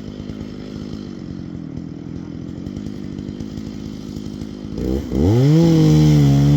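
Chainsaw idling with a low, rapid putter, then throttled up about five seconds in: its pitch rises quickly and it runs loud and steady at high speed.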